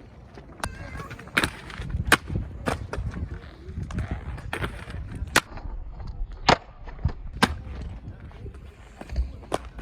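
Skateboard rolling over concrete with a low rumble, broken by about ten sharp, irregular clacks of the board and wheels hitting the surface.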